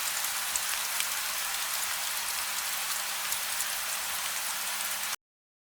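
Steady gentle rain, an even hiss with faint individual drop ticks and no thunder. It cuts off suddenly near the end.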